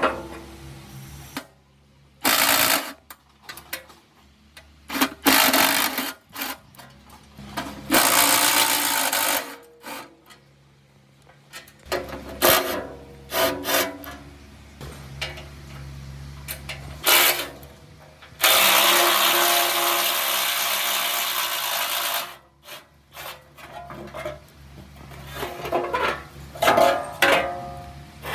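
Workshop tool noise: a power tool run in short bursts of a second or a few seconds, one longer run of about four seconds, with knocks and clanks of metal parts between them.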